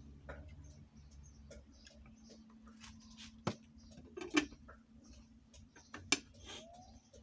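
Kitchen knife cutting on a chopping board: irregular light clicks and taps, with three louder knocks in the middle and near the end.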